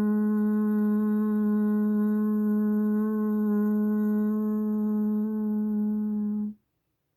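A person's voice humming one long, steady note, which cuts off suddenly about six and a half seconds in.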